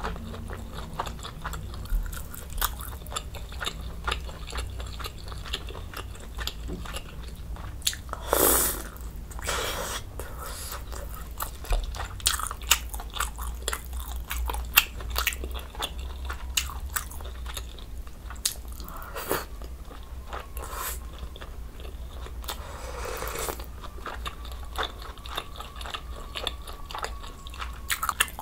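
Close-miked eating: chewing and biting mouthfuls of budae jjigae, with many small wet mouth clicks. A few longer breathy sounds stand out about eight and nine and a half seconds in and again around twenty-three seconds.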